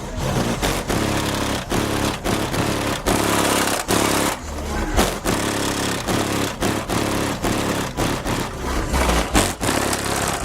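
Bass-heavy music played at very high volume through a car audio system of twelve DC Audio XL 12-inch subwoofers, the bass notes changing in quick steps, with many brief dropouts.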